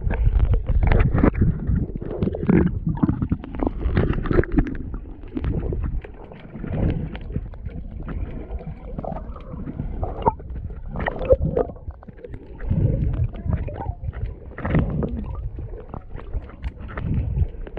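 Water sloshing and gurgling close to the microphone in irregular surges, as from a swimmer moving with the camera at the water's surface.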